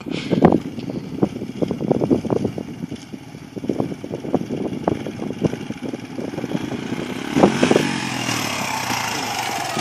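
Suzuki 125 dirt bike engine running as the bike is ridden, uneven and choppy at first, then steadier and louder from about seven and a half seconds in.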